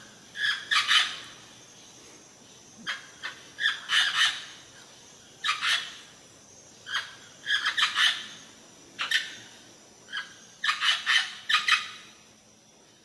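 Indian parrot giving short, harsh calls in quick clusters of two to four, a new cluster every second or two.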